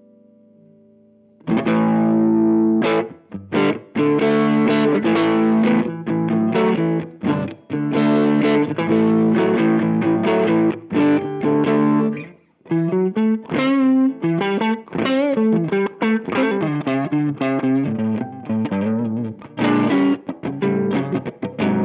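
Electric guitar played through a TC Electronic MojoMojo overdrive pedal, with a mild, soft-textured drive. About a second and a half in, chords start in short rhythmic stabs with brief stops. Midway it turns to single-note lead lines with bends and vibrato, then goes back to chords near the end.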